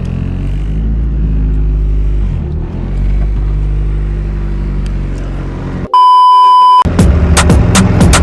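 A car engine running with a steady low sound for about six seconds. It cuts abruptly to a loud, steady, single-pitch beep lasting about a second, then music with a sharp beat comes in.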